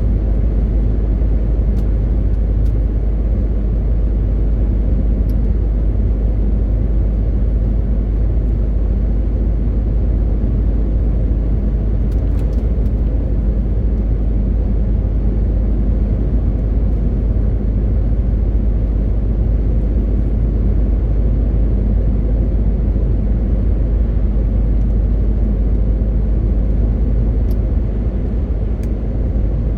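MAN TGX 18.520 truck's straight-six diesel running at a steady cruise: a deep, even rumble mixed with road and tyre noise, with a few faint clicks.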